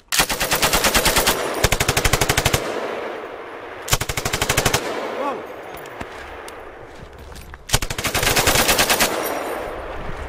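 M240G 7.62 mm belt-fed medium machine gun firing four bursts of rapid automatic fire, each about a second long. The shots echo and fade between bursts.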